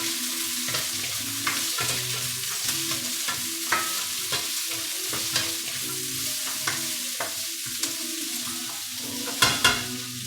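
Capsicum and onion sizzling in a hot wok, with scattered light clicks and a couple of louder knocks near the end. A faint steady low hum runs underneath.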